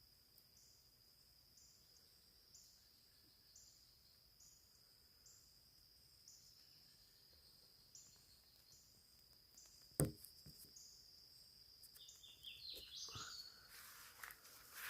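Faint insects chirping: a steady high-pitched buzz with a rhythmic chirp repeating a little more than once a second. There is a single sharp click about two-thirds of the way through, and a few short chirpy calls near the end.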